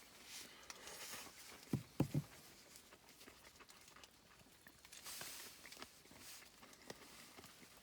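Soft rustling and light handling noises with scattered small clicks, and a cluster of three dull knocks about two seconds in.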